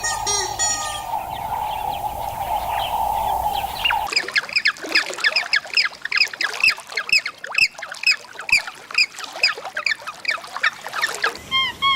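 A steady droning noise for about four seconds, then a sudden change to a crowd of birds calling in rapid, high, downward-sliding chirps, several a second, which stop abruptly near the end.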